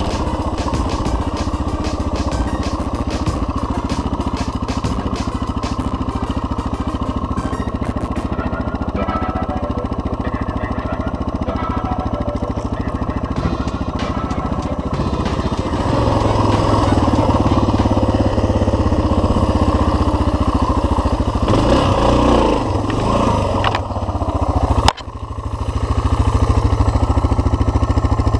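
Suzuki DR single-cylinder four-stroke dual-sport motorcycle engine running while riding off-road, getting louder a little past halfway through, with a brief dip and a sudden break near the end before it picks up again.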